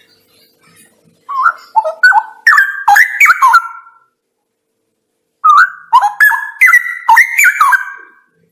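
Straw-headed bulbul (cucak rawa) singing two loud phrases of quick, liquid, gliding warbled notes, each about two and a half seconds long, with a pause of about a second and a half between them.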